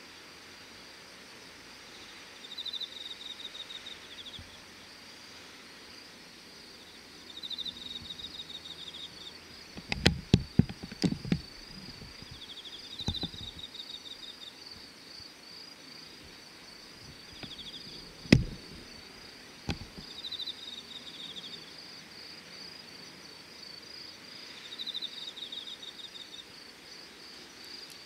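Insects calling: short high chirping phrases repeat every two to three seconds over a steady, higher trill. A cluster of sharp knocks comes about ten seconds in, and a single louder knock a little after eighteen seconds.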